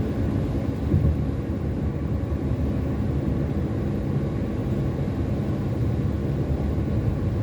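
Car driving along, a steady low rumble of engine and road noise, with a brief low bump about a second in.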